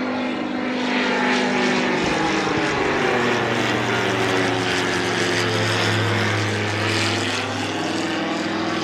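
Camera drone's propellers whirring in flight close by, a steady multi-pitched whine whose pitch drifts up and down as the rotors change speed.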